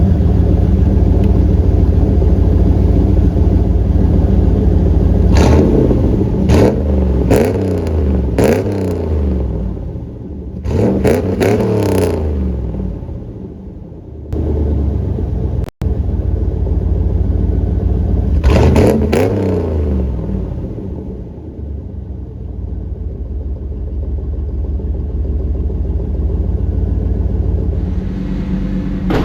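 A 1988 Pontiac Firebird Formula's TPI V8 idles after a cold start and is blipped through several short revs. Each rev falls back to a steady idle: a quick run of four about five to nine seconds in, a cluster near twelve seconds, and one more around nineteen seconds.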